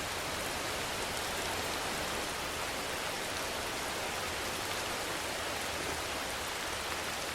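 Steady rainfall: a dense, even hiss of rain that holds level throughout.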